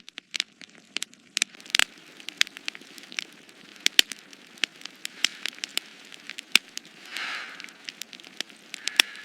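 Irregular sharp crackles and pops, several a second, over a low steady rustle, with a brief hissing swell about seven seconds in.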